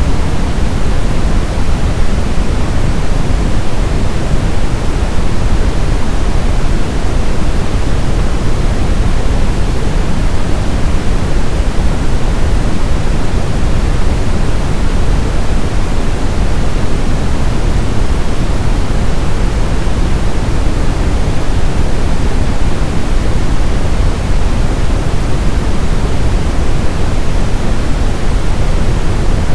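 Steady brown noise: a constant, even hiss-rumble weighted toward the low end, with no changes or events.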